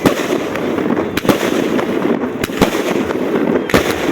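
Fireworks display of 4–5 inch festival aerial shells: four sharp bangs about a second apart over a continuous dense noise.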